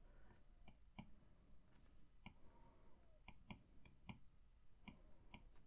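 Faint, irregular clicks of a stylus pen tip tapping and striking an iPad's glass screen while sketching, about a dozen over a few seconds.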